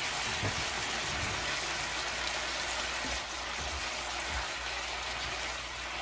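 Beef strips searing in a hot skillet with onion and garlic: a steady, even sizzle.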